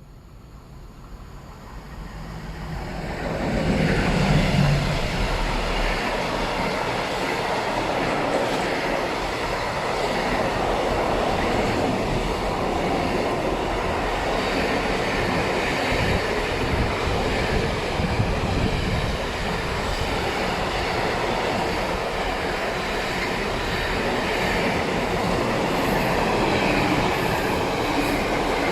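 An electric train approaching and passing close by, growing loud over the first few seconds and then a long steady run of wheels on rails with clickety-clack.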